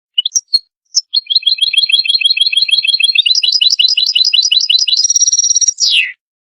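European goldfinch song: a few short call notes, then a fast, even trill of repeated notes, about eight a second, that steps up in pitch partway through and ends in a buzzy stretch and a note sliding down.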